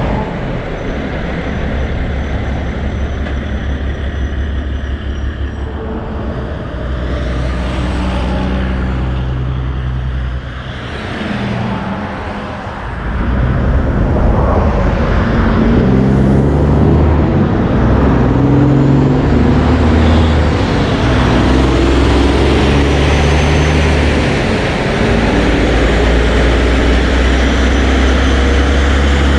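Road traffic with trucks passing: engines running under steady road noise, growing louder about 13 seconds in as a heavier vehicle comes close.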